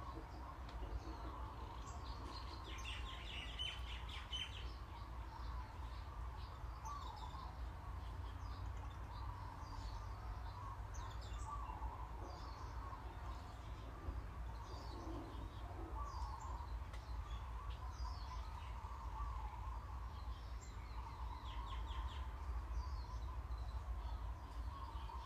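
Small birds chirping and twittering, many short calls scattered throughout, over a steady low hum.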